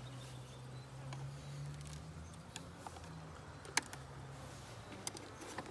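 Honey bees buzzing close up at an open hive: a low, steady hum that wavers slightly and fades about four seconds in. A few sharp clicks sound over it.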